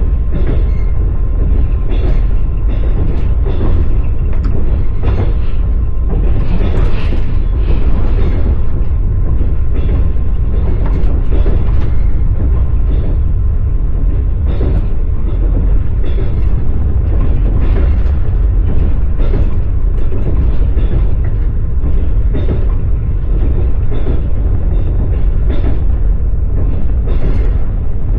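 Passenger train rolling along the track, heard from inside the carriage: a steady heavy rumble with irregular clicks and knocks of the wheels over the rail joints.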